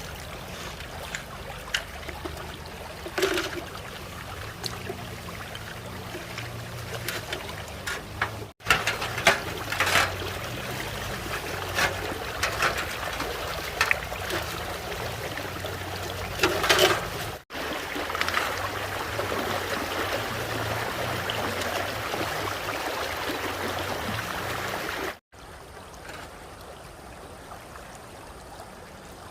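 Running stream water, with scattered short knocks and clatters over it. The sound drops out abruptly three times, and after the last break it is quieter.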